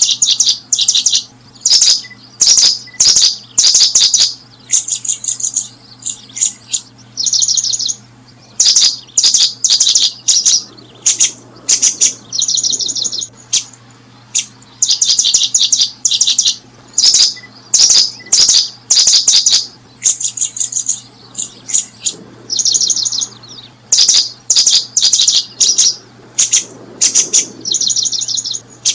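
Small birds chirping: short bursts of rapid, high trills, one after another about every second, over a faint steady low hum.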